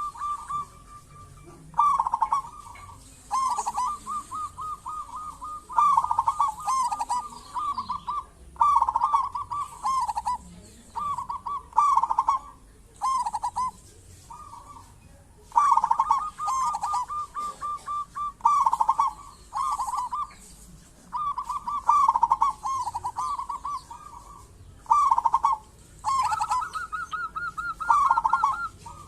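Zebra dove (perkutut) cooing: repeated phrases of quick, rolling coo notes, one phrase every second or two with short pauses between, the last phrase near the end pitched a little higher.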